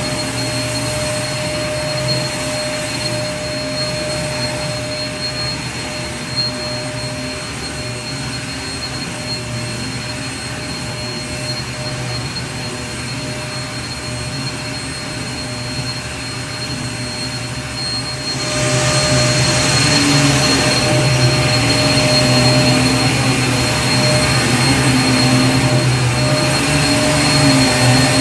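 Vacuum cleaner running steadily: a continuous rushing of air over a low motor hum, with a thin high whine. About two-thirds of the way through it grows louder and brighter, and stays so.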